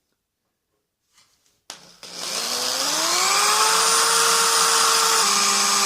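Electric drill spinning up about two seconds in and running at a steady pitch, which drops slightly near the end as the bit bears into the work. The bit is dull enough that it needs sharpening.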